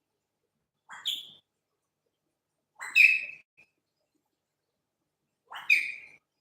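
Pet parrot giving three short, rising calls about two seconds apart.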